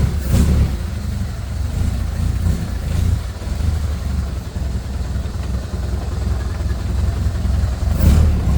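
1928 Ford Model A four-cylinder engine with a four-port overhead-valve head conversion idling steadily, still cold with the choke partly on. There are brief bumps near the start and, loudest, near the end.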